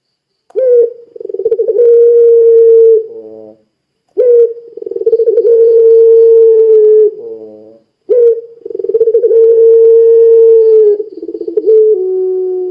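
Puter pelung turtle dove cooing loudly in full song: three long coos, each opening with a short rising note, holding one steady tone for a couple of seconds, then breaking into a falling, stepped tail. A fourth coo begins near the end.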